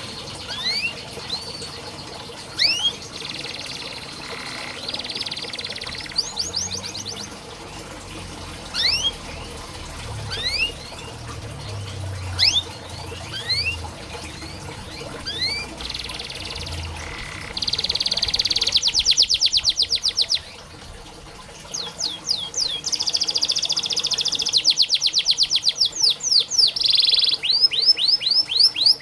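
Domestic canary singing: quick upward-sweeping whistled notes and buzzy phrases in the first half, then long, fast rolling trills, louder, from about two-thirds of the way through.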